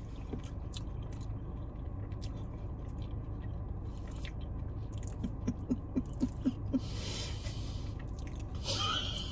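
A person chewing a mouthful of potato salad, with a run of soft, quick chews about halfway through, over a steady low hum inside a car.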